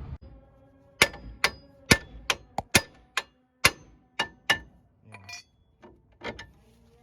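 Hammer striking steel suspension parts: about ten sharp, ringing metal blows in quick succession, followed by a few lighter knocks near the end, as a worn front lower control arm is knocked loose from a 2007 Ford Focus.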